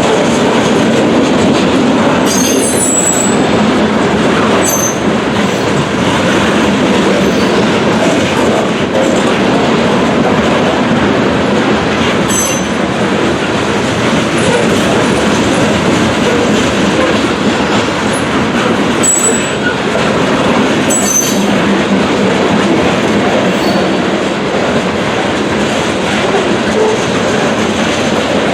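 Freight train cars rolling past at close range: a steady rumble of wheels on rail with clickety-clack, and several brief high-pitched wheel squeals along the way.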